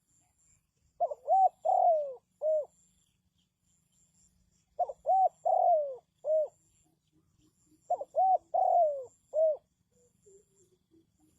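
Spotted dove singing its cooing song three times, about three seconds apart. Each phrase is two short coos, then a longer falling coo and a short final one. Fainter, softer low notes follow near the end.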